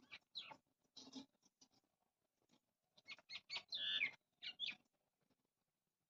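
Small birds chirping in short calls, with one falling chirp a little before the end, among light pattering taps of birds pecking at grain.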